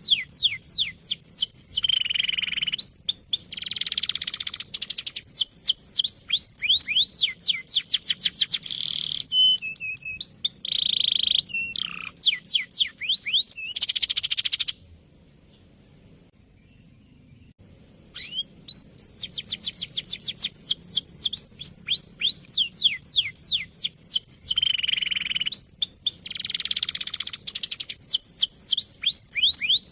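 Male domestic canary singing rolling trills: fast runs of repeated high, downward-sweeping notes. The song breaks off for about three seconds around the middle, then starts again.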